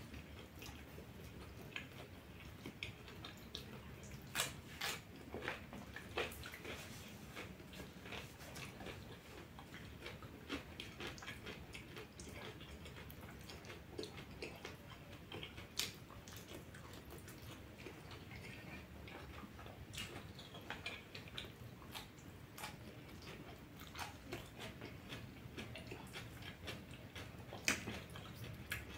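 Mouth sounds of a person eating: chewing and biting, with irregular small clicks and smacks and a few sharper ones.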